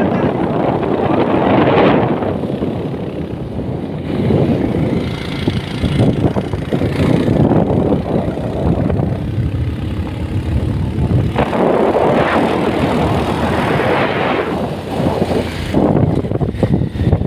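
A motor vehicle running, with loud, uneven road and engine noise that swells and eases.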